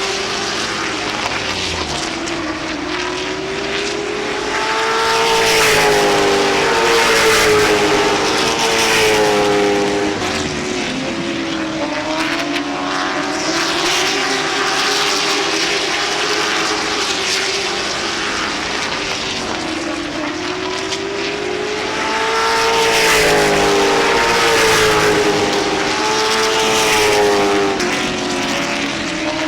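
A pack of late model stock cars running around a short oval track, their V8 engines rising and falling in pitch together as they accelerate down the straights and lift for the turns. The sound swells twice as the field comes past.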